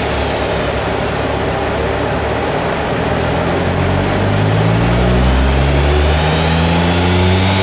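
Ford Fiesta ST Mk8's 1.5-litre turbocharged three-cylinder engine through a Milltek cat-back exhaust. A steady loud rush runs for the first three seconds, then the engine revs climb steadily under power.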